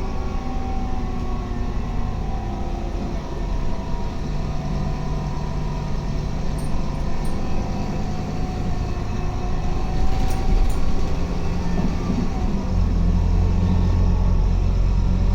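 Scania K280UB bus's diesel engine running steadily, with a few faint clicks in the middle; from about thirteen seconds in it grows louder with a deeper rumble.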